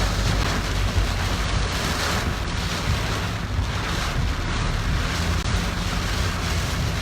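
Steady rush of typhoon wind and rain heard from inside a moving car, over a low rumble of the car and its tyres on a wet road.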